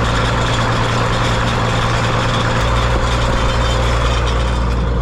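1977 Gleaner L2 combine's engine running steadily with a deep, even drone.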